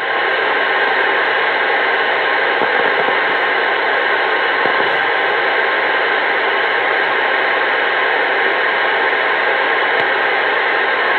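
CB radio receiver giving out a steady, loud hiss of static through its speaker, with no voice on it. It cuts in suddenly at the start.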